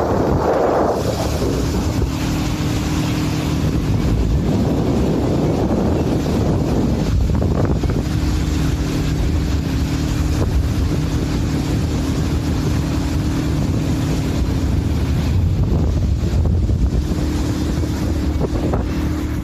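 Charter fishing boat under way, its engine running steadily under a constant rush of wind buffeting the microphone.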